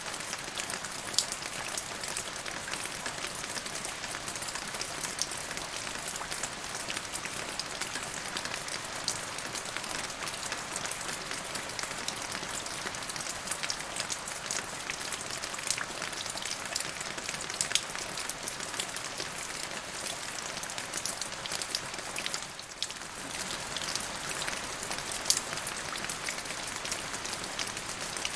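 Steady rain falling, a dense hiss with many separate drops pattering close by. It thins briefly about three-quarters of the way through.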